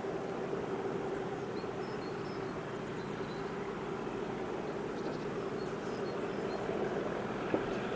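Distant pair of Class 37 diesel locomotives with English Electric V12 engines working hard on a freight train, heard as a steady drone that grows slightly louder as they approach. Faint bird chirps sound over it.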